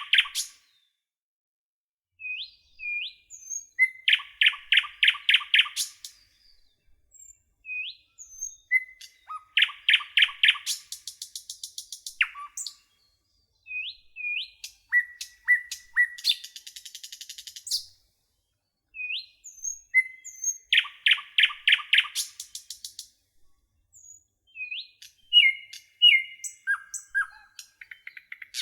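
Common nightingale singing: phrases a few seconds long with short pauses between, built of rapid runs of repeated notes, short rising whistles and a buzzy trill.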